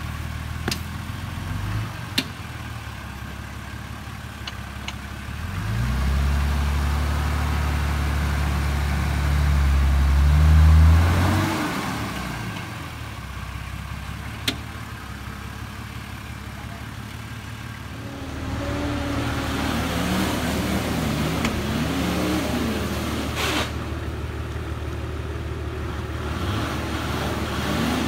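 A four-wheel drive's engine ticking over, then revved up and held for about five seconds as it crawls over rocks, before dropping back. Later the engine is revved up and down repeatedly, with a few sharp clicks.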